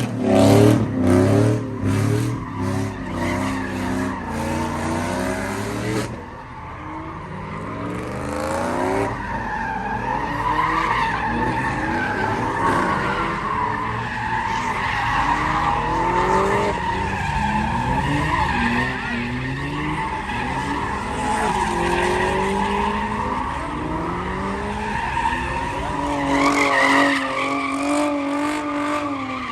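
A car's engine revving hard, rising and falling, while its tyres squeal without a break as it spins them on the pavement. The revving swells again near the end.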